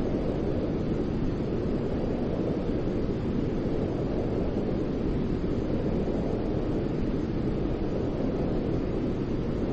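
Steady baby-soothing white noise: an even, deep rushing hiss, heaviest in the low range, with no tones or changes.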